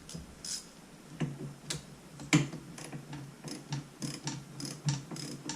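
A string of sharp, irregularly spaced metal clicks, about two or three a second, from hand tools working the cam sprocket bolts on an ATV engine's top end.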